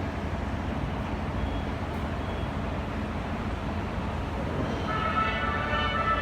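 Railway station platform noise, a steady low rumble. About five seconds in, a chiming platform melody starts over the station speakers, the kind played before a train's departure.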